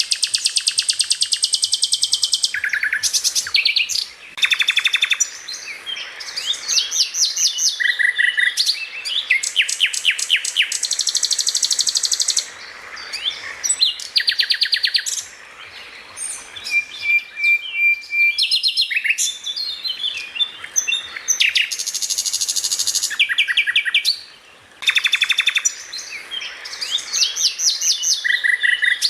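Greater green leafbird (cucak ijo) singing loud, high-pitched phrases of rapid-fire repeated notes and trills, the fast 'tembakan' (shooting) song, in bursts of a second or two with short pauses, and a single held steady whistle a little past the middle.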